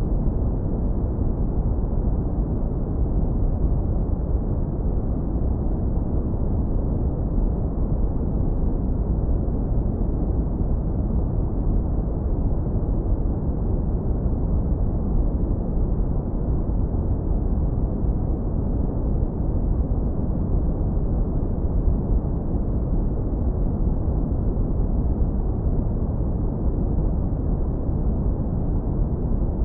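Synthetic brown noise, low-pass filtered so that only a deep, warm rumble remains, with almost nothing above about 2 kHz. It runs at a constant level with no changes or events.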